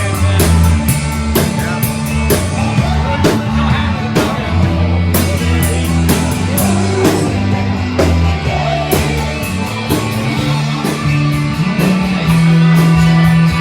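Live rock band playing: a drum kit keeps a steady beat under bass and guitar. The bass comes in louder near the end.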